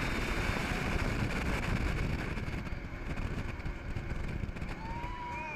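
Jet boat running on the water: a dense, steady rumble of engine and rushing water and wind, easing slightly after about two and a half seconds. Near the end a high voice calls out.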